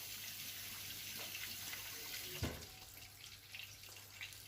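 Floured, egg-coated whiting fillets sizzling in hot oil in a frying pan: a steady hiss with light crackles. A soft knock comes about two and a half seconds in.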